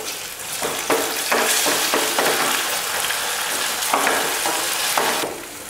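Onions and a halved tomato sizzling in hot oil in a metal kadai, stirred and scraped with a wooden spatula, about one scrape a second. The sizzle stops just before the end.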